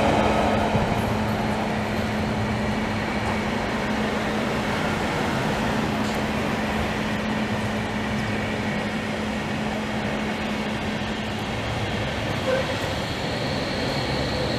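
Trains rumbling steadily across an elevated railway viaduct overhead, with a steady low hum beneath them. A high, thin squeal sets in near the end.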